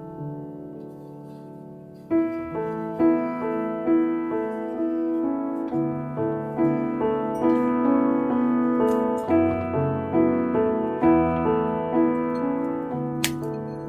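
Solo piano background music: a few soft held notes, then from about two seconds in a steady flow of gentle notes. A brief clink near the end.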